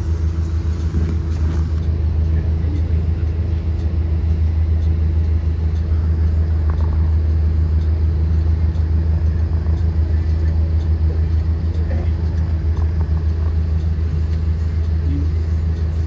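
Blue Bird Vision school bus running steadily: a deep, even rumble with a constant hum above it.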